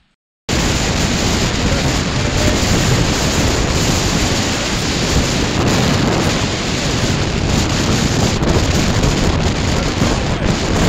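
Strong wind buffeting a phone's unshielded microphone on an exposed hilltop: a loud, continuous rumble and roar heaviest in the low end, starting abruptly about half a second in.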